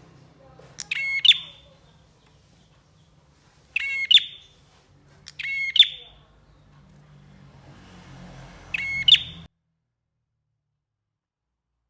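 Prenjak (prinia) calling in four short bursts of rapid, sharp chirps, each under a second long and a second or more apart. The sound cuts off suddenly about nine and a half seconds in.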